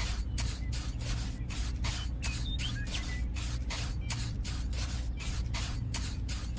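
Small motor of a DIY mini tractor running steadily with a low hum and a rhythmic hissing chuff about four times a second.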